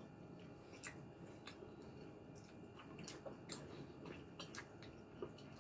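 Faint close-up chewing of braised pork skin (lechon paksiw), with scattered small wet clicks and smacks of the mouth.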